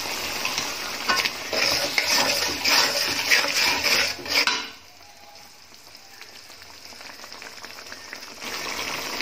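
Spiced masala frying in oil in a wok, sizzling, with a spatula stirring and scraping against the pan: the stage of frying down (kosha) the spices and tomatoes. About four and a half seconds in, the sizzle drops to a faint hiss, and it comes back louder near the end.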